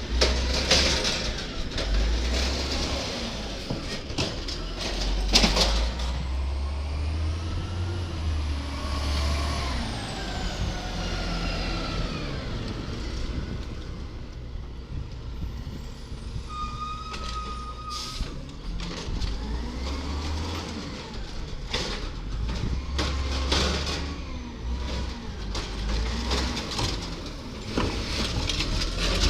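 Garbage truck engine rumbling and revving up and down hard, with a growl, mixed with several sharp clanks and knocks.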